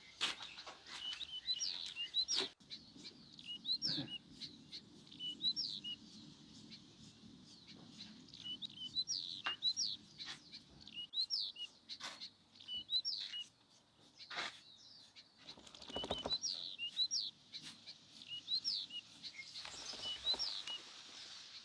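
Small birds chirping: short, high, falling chirps repeated several times a second, with a few sharp knocks scattered among them.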